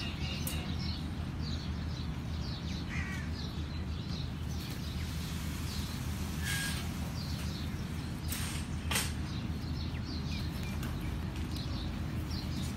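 Birds calling repeatedly in short, high calls, over a steady low background rumble, with a few sharp clicks about halfway through.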